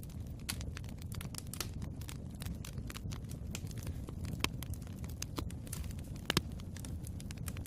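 Wood fire crackling in a fireplace: a steady low rumble of burning with frequent sharp pops and snaps, and a louder pop about six seconds in.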